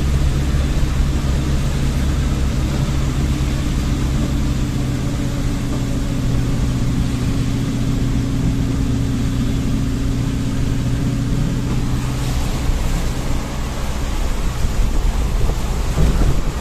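A moving vehicle's engine drones at a steady, unchanging pitch under road noise. About twelve seconds in the drone fades and the noise turns uneven and gusty.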